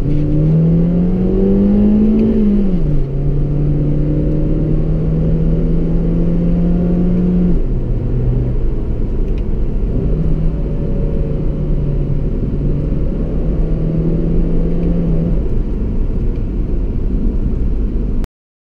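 Car engine heard from inside the cabin, rising in pitch as the car accelerates for about two seconds, then falling sharply at an upshift. It then runs steadily at cruising speed, eases off about seven and a half seconds in and picks up again around ten seconds, over a constant low road rumble.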